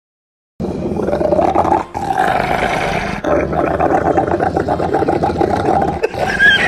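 A dog growling, loud and rough, starting abruptly under a second in and going on with only a few short breaks.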